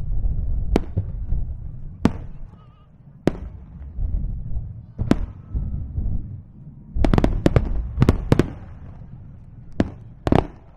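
Aerial fireworks bursting over the sea: single sharp cracks every second or two, then a quick cluster of several bangs about seven seconds in, over a continuous low rumble of booms.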